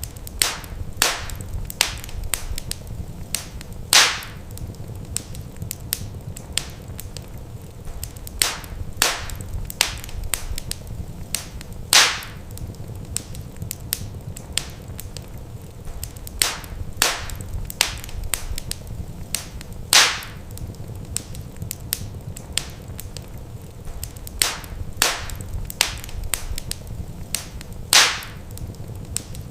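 Wood fire crackling, with irregular sharp snaps and pops over a low steady rumble. A louder pop comes about every eight seconds.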